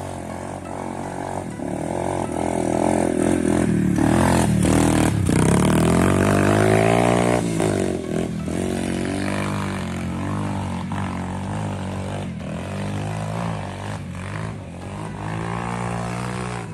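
Trueno 125 cc motorcycle engine revving hard under load as it climbs a steep dirt trail. Its pitch rises and falls with the throttle, and it is loudest in the first half before easing back about eight seconds in.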